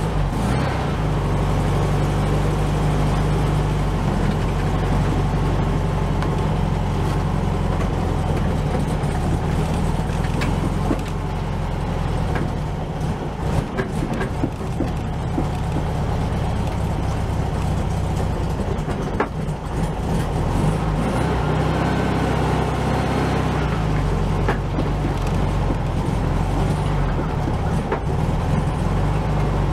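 Air-cooled VW Beetle flat-four engine running steadily on a ride in the lowered Bug. Its note dips and picks up again a couple of times.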